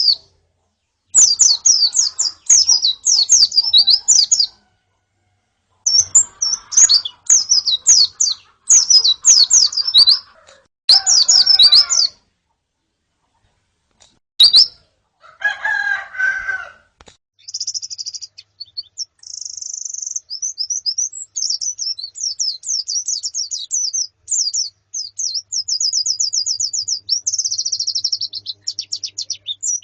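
White-eyes (pleci) calling: bursts of rapid, high, down-slurred chirps separated by short silences, then a brief lower, rougher call about halfway through. From then on the chirps run together into a continuous fast twittering.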